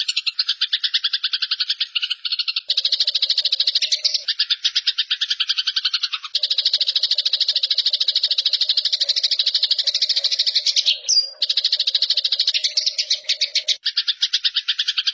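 Eurasian tree sparrows giving their harsh fighting chatter: fast rattling trills of many pulses a second, overlapping runs that break off briefly a few times.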